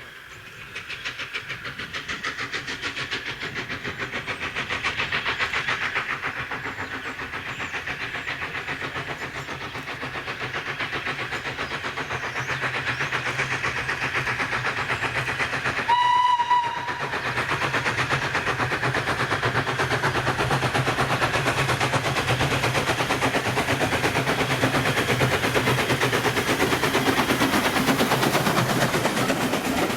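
Steam locomotive working a train, getting louder over the first few seconds and then holding. About halfway it gives one short blast on its whistle.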